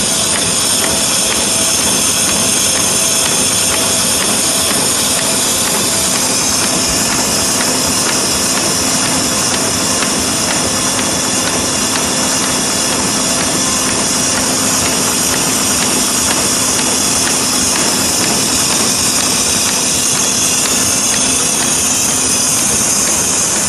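Muller Martini 3215 book-sewing machine running: a loud, steady mechanical noise with a strong hiss and a low steady hum that drops away about 21 seconds in.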